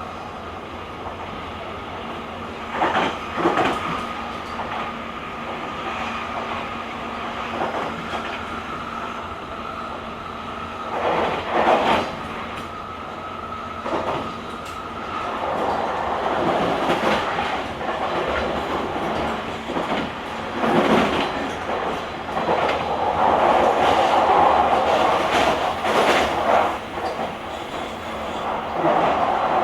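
Running sound of a JR Kyushu 883 series limited express at speed, heard from inside the vestibule deck of its GTO-inverter motor car. Wheels clatter over rail joints every few seconds against a steady rumble. A steady whine stops about halfway, after which the running noise grows louder.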